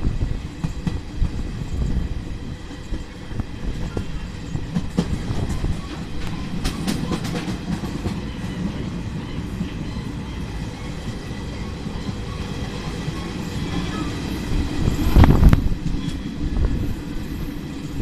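Passenger train running along the track: a steady low rumble with the clickety-clack of wheels over rail joints, swelling louder for a moment about fifteen seconds in.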